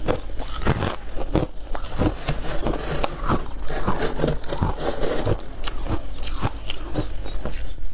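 Close-miked biting and chewing of freezer frost and ice: a dense run of irregular crunches and crackles, several a second.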